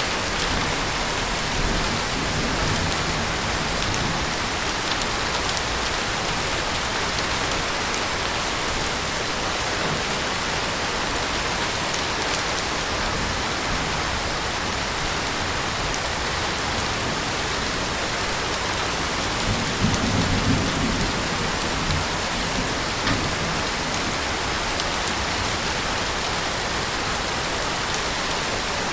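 Heavy rain falling steadily, a dense even hiss with scattered drop ticks. A brief low rumble swells and fades about twenty seconds in.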